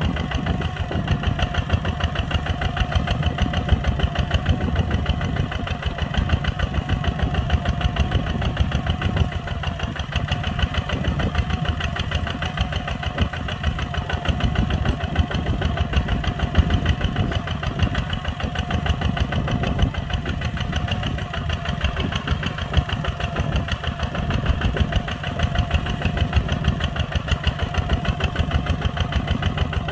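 Kubota ZT 140 tractor's single-cylinder diesel engine running steadily, with a rapid, even chugging beat.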